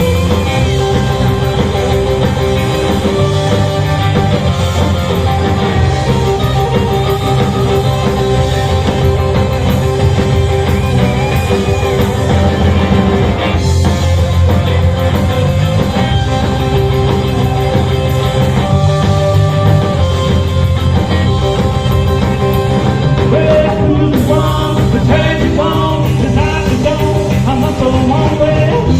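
Rock band playing an instrumental break between sung verses, with a steady bass and drum backing under sustained melodic notes.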